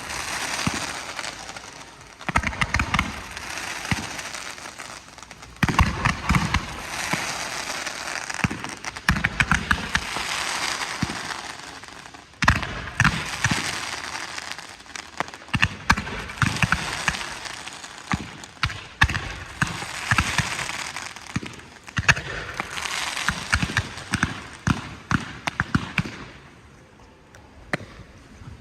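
Low-noise firework display: soft launch thumps and bursts with dense crackling and fizzing effects, coming in waves with short lulls and dying down near the end.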